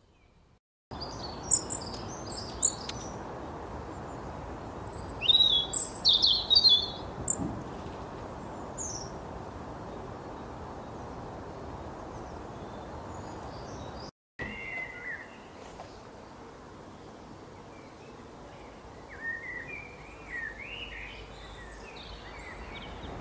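Small birds chirping and trilling in quick, high bursts over a steady low background hiss. The loudest flurry of calls comes a few seconds in. The sound starts after about a second of silence and cuts out for a moment about midway.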